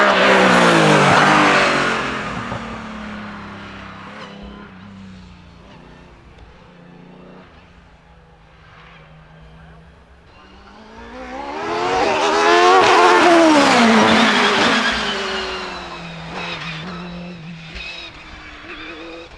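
Hillclimb racing cars passing at full throttle, twice: the first is loudest at the start and fades away with its engine pitch dropping. The second builds from about ten seconds in, rises in pitch to its loudest at about thirteen seconds, then drops away and fades.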